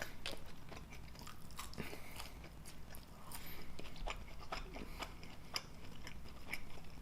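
A person chewing a mouthful of burger close to the microphone: many small, irregular wet mouth clicks and soft crunches.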